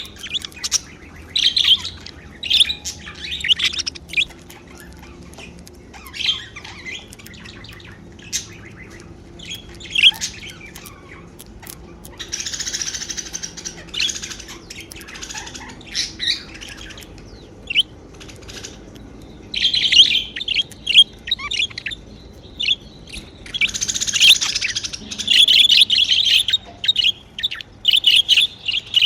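Budgerigars chirping and chattering in short, high bursts, with two longer, noisier stretches of chatter about twelve and twenty-four seconds in, and the chirps coming thick and fast near the end.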